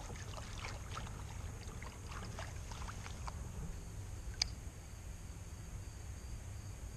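Light water splashes and drips at the side of a kayak, over a steady low rumble, with one sharp click about four and a half seconds in.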